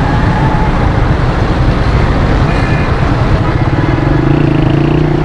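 Motorcycle engine running amid road traffic over a steady rush of noise. The engine hum grows stronger in the last second or two.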